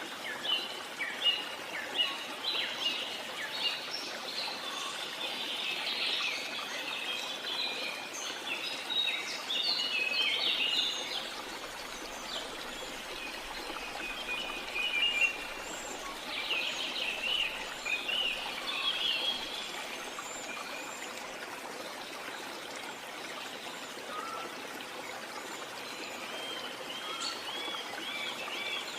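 Steady rush of a jungle waterfall, with birds chirping and calling over it in quick overlapping phrases that thin out about two-thirds of the way through and pick up again near the end.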